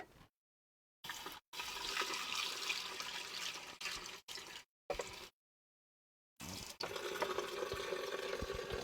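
Water running from a sink tap, an even rushing splash.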